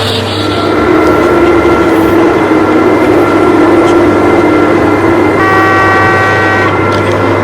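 H0-scale model train running under digital (DCC) control, with a steady hum and running noise, and a horn sounding once for just over a second about five and a half seconds in.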